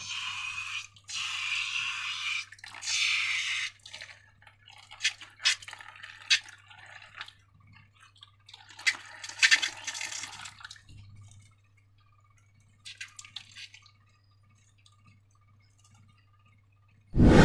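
Liquid slime ingredients squirting out in three short hissy spurts, then wet dripping, squishing and clicking. A loud sudden thump comes right at the end.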